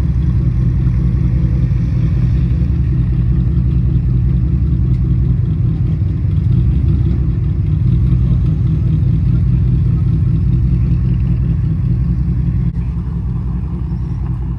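Car engine running steadily at an even pitch with a deep drone, the level easing slightly near the end.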